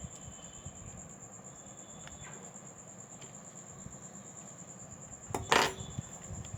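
Small metal tools and parts handled on a work surface: a few faint taps, then a sharp metallic clink about five and a half seconds in, over a steady faint high whine.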